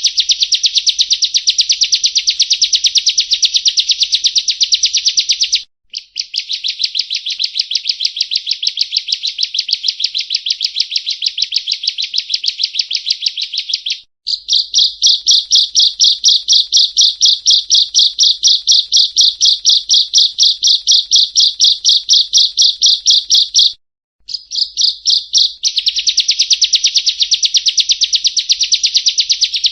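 Ciblek (bar-winged prinia) singing long, rapid, rolling trills of evenly repeated high notes, in runs of several seconds separated by brief pauses. The middle run is narrower in pitch and louder. This is continuous 'gacor' song of the kind used as masteran training audio for songbirds.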